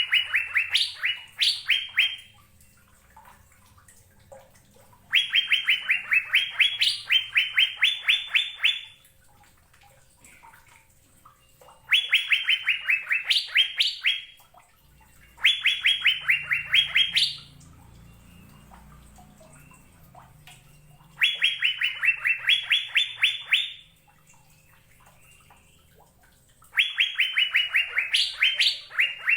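Asian fairy-bluebird (cucak biru) singing in bouts of rapid, evenly repeated whistled notes. Each bout lasts two to four seconds, opens with slightly falling notes and ends with a few higher ones, and the bouts come every few seconds.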